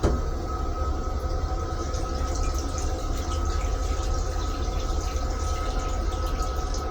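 Railcar toilet flushing: a click, then several seconds of rushing water, over the steady low rumble and thin whine of the moving M3 railcar.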